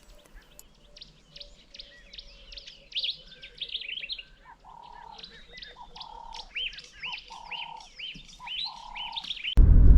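Wild birds calling: a chorus of quick, arching chirps, joined in the second half by a lower call repeated about five times at roughly one-second intervals. Just before the end it cuts suddenly to much louder noise.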